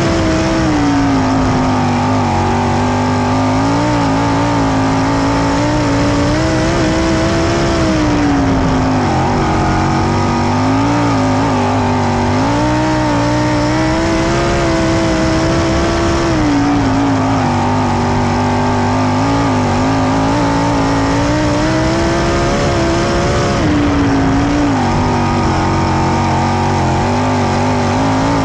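410 sprint car's V8 engine running hard on a dirt oval. Its pitch rises on the straights and drops through the turns, cycling about every eight seconds.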